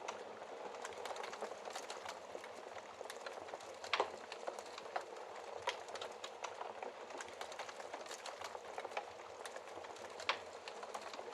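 Wood fire in a fireplace crackling, a steady hiss of burning wood with irregular sharp pops, the loudest about four seconds in and again near ten seconds.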